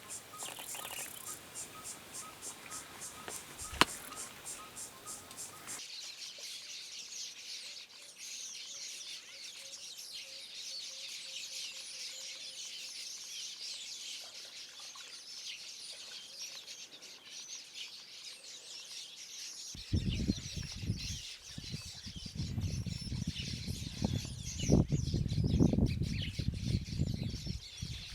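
Birds and insects calling in a dense high chorus, opening with a rapid, evenly repeated chirping for the first few seconds. Low, irregular rumbling joins about twenty seconds in.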